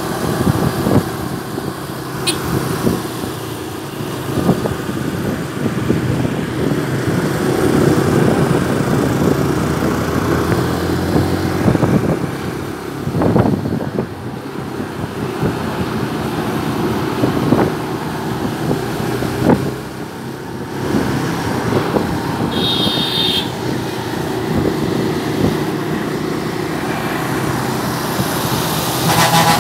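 Motorcycle engine running at a steady road speed with wind and road noise, as heard while riding. Two short honks sound, a high one about three quarters of the way through and a lower one at the very end.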